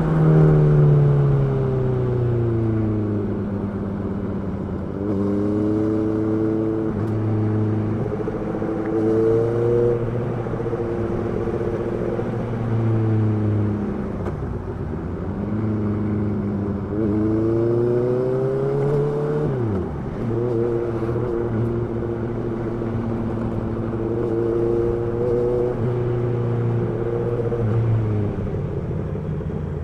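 Honda CB650R's inline-four engine and exhaust running and revving, its pitch rising and falling with engine speed through several steady stretches, with a sharp drop in revs about two-thirds of the way through.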